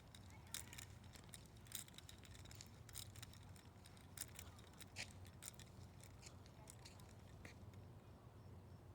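Quiet ambience with scattered faint clicks and ticks at irregular intervals. An insect begins a fast, high-pitched pulsing chirp near the end.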